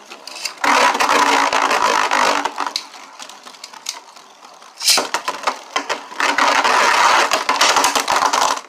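Beyblade spinning tops launched into a plastic stadium, clattering and scraping as they collide. There is a sharp launch snap about five seconds in, then a loud stretch of clashing that stops suddenly near the end as the battle ends abruptly.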